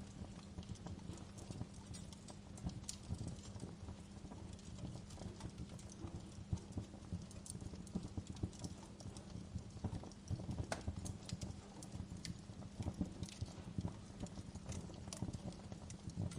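Wood fire burning in a fireplace: irregular crackles and sharp snaps over a steady low rush of the flames.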